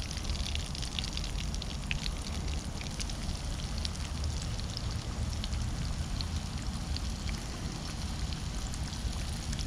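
Breaded catfish pieces deep-frying in hot oil: a steady sizzle with many small pops and crackles, over a low rumble.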